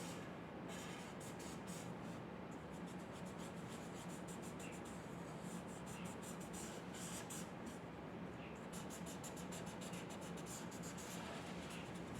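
A pen scratching across paper in many quick, repeated strokes, over a steady low hum.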